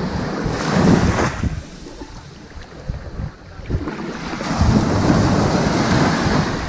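Ocean waves washing onto a sandy beach: one wave surges about a second in and fades, and another builds from about halfway and stays up.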